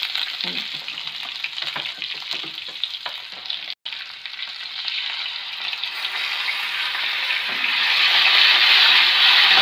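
Chopped garlic sizzling in hot oil in a frying pan, with a wooden spatula clicking and scraping as it stirs. Near the end, raw chicken pieces are tipped into the pan and the sizzling grows louder.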